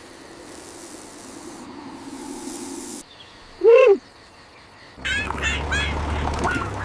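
Cartoon creature calls: one loud call that rises and falls in pitch, then a quick run of short chirping calls over a low steady rumble.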